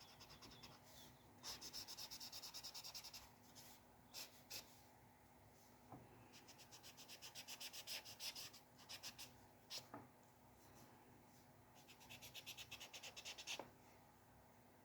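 Faint scratching of a pen or pencil on paper in quick, even back-and-forth strokes, as in hatching or shading, coming in three runs with pauses between them. A few single light taps fall in the pauses.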